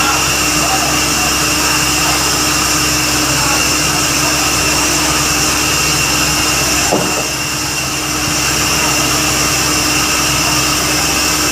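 Borewell drilling rig running: a loud, continuous machine noise with a steady hum, easing slightly for a moment about seven seconds in.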